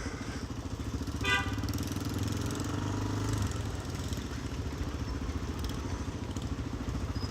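Motorcycle engine running steadily at low speed, a low, pulsing engine note, with a brief high squeak about a second in.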